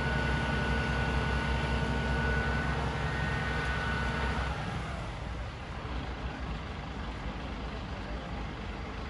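Heavy truck engine running steadily with a high whine over it. About four and a half seconds in, the whine stops and the engine drops to a quieter, lower running.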